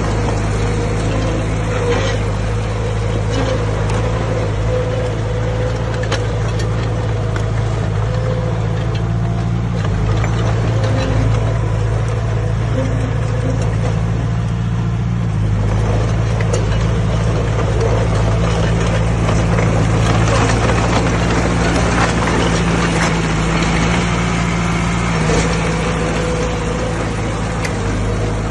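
Diesel engine of heavy earthmoving machinery running steadily, with scattered short clanks and knocks over it.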